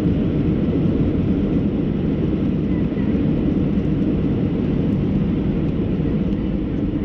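Cabin noise inside a Boeing 737-700 with CFM56-7B engines: a steady, dull rumble concentrated low, easing slightly near the end.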